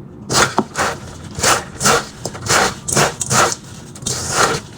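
Chatpate (puffed rice with spices and chopped vegetables) being mixed in a bowl, a rhythmic scraping rustle about twice a second.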